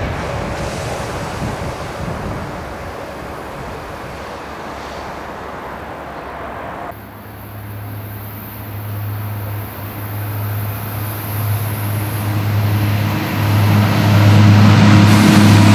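An electric locomotive rushes past on the track with broad rail and wind noise. About halfway through this gives way to an SBB fire-and-rescue train (LRZ) approaching, its diesel engines a low steady drone that grows louder as it nears.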